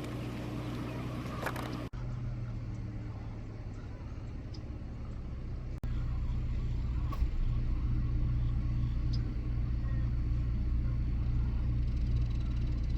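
Dodge Grand Caravan minivan driving: a steady low drone of engine and road noise, which gets louder about six seconds in.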